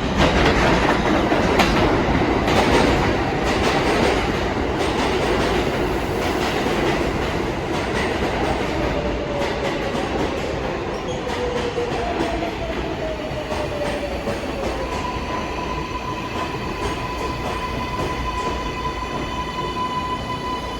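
R188 subway train pulling into the station and braking: wheels clacking over rail joints and dense rail noise at first, then whining tones that fall in pitch as it slows. A steady high tone holds near the end, as it comes toward a stop.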